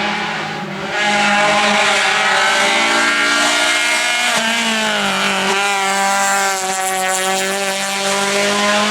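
Race car engine running at high revs. It gets louder about a second in, its pitch falls briefly a little before halfway as the revs drop, then it holds steady again.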